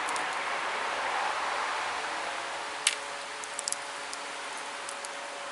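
Pressure flaking a tiger chert flake: one sharp click about three seconds in as a small flake snaps off the edge, then a few lighter ticks, over a steady hiss.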